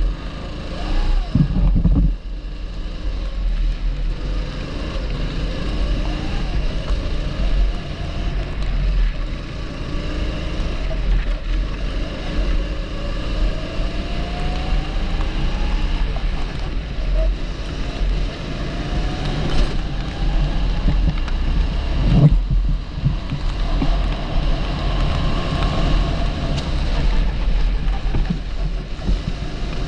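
A 270cc TB rental kart's engine running under way, its pitch rising and falling as the throttle opens and closes, over a steady low rumble and wind on the microphone. A sharp knock about twenty-two seconds in.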